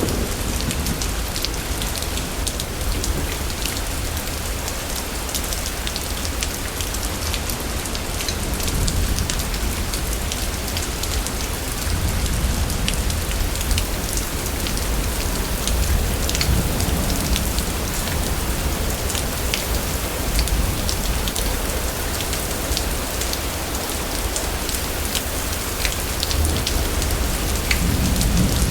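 Steady heavy rain falling and pattering on surfaces, with many small drop hits and a constant low rumble underneath.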